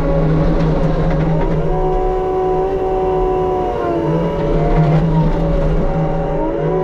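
Case skid steer's diesel engine running hard while working a forestry mulching head, its pitch sagging and recovering a few times as the load changes.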